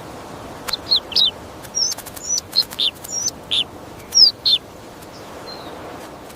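A small bird chirping: a dozen or so short, high chirps, some in quick pairs, that stop a little past halfway. Underneath is a steady outdoor hiss, with a few sharp clicks.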